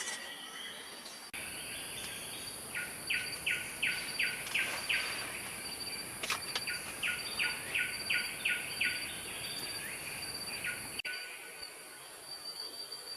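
A bird calling in two runs of quick, down-slurred notes, about three a second, over a steady high hiss of insects.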